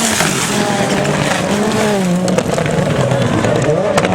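Several turbocharged rallycross Supercars racing, their engine notes rising and falling through gear changes and throttle lifts, with tyre noise on the track. A sharp crack sounds near the end.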